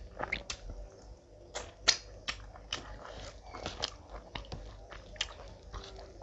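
Close-miked eating sounds: chewing a mouthful of rice with wet mouth smacks and clicks at irregular intervals, the sharpest about two seconds in.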